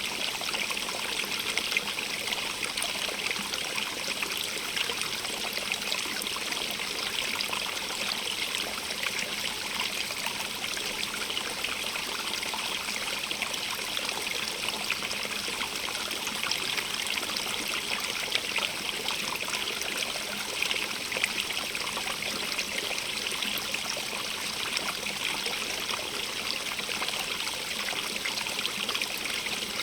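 A stream running and trickling over rocks in a steady, continuous rush, brightest in the hiss, with a fine flicker of splashes.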